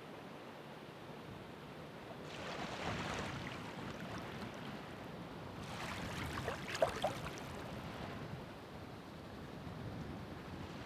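Ocean waves breaking and washing in over a steady low wash of surf: one surge about two seconds in, and a second, louder one midway with a few sharp crackles at its peak.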